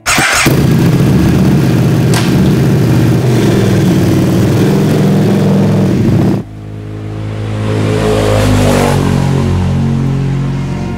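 KTM sport motorcycle engine bursting into life and running loud and steady for about six seconds, then cutting off abruptly. A second engine note then swells up and dies away.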